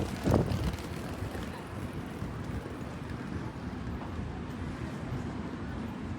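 Train running: a steady low rumble of the moving train, with a brief louder swell just under half a second in.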